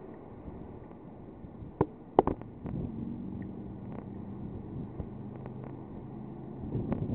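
Motorboat engine running steadily at a low level, a low hum with a faint pitch to it. A few sharp knocks come about two seconds in.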